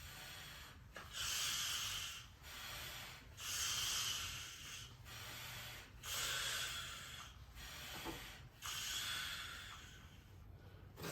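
Homemade PVC piston air pump being worked by hand, air hissing through its valves in four long strokes a couple of seconds apart, with quieter strokes between, as it blows up a balloon through a check valve.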